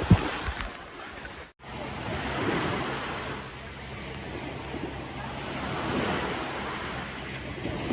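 Sea waves washing in, a steady rush that swells and ebbs every few seconds, opening with a brief knock.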